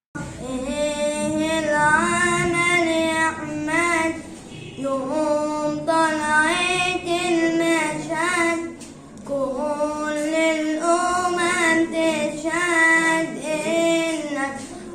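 A boy singing an Arabic nasheed solo: a high melody with wavering, drawn-out notes, in phrases a few seconds long.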